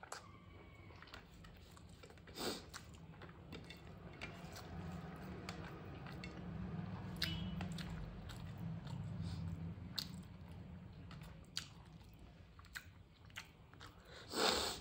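Close-miked chewing of a mouthful of rice and fish eaten by hand, with many small wet mouth clicks and smacks. A louder short noise stands out near the end.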